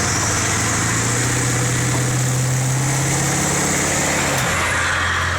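Pickup truck engine running steadily, the pitch of its hum dropping slightly about four and a half seconds in.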